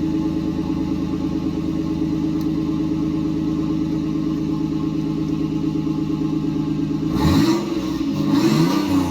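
Toyota Supra's turbocharged inline-six idling steadily, then revved twice about seven seconds in, its pitch rising and falling with each blip of the throttle.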